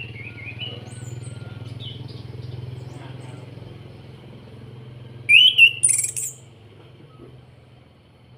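A chestnut-capped thrush (anis kembang) gives a few short chirps, then about five seconds in a loud, brief burst of high, rapid song notes. A steady low hum, like an engine, runs underneath and fades near the end.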